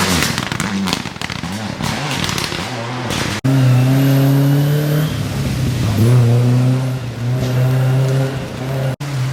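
Rally car engines running hard through a stage, in short clips cut together. About three seconds in, a louder car takes over, its engine note dipping and climbing again around six seconds in, typical of a gear change.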